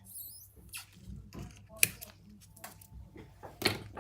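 Irregular light clicks and short scrapes of small hard objects being handled on a work surface, with a brief high squeak at the start and sharper clicks near the middle and near the end.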